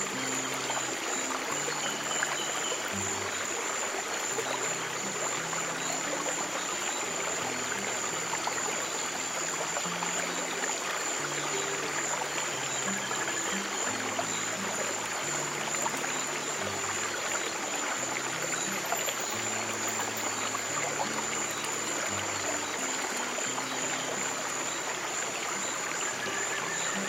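Water flowing steadily in a stream. Under it are soft, low, sustained notes of background music that change every second or two, with a thin, steady high tone above.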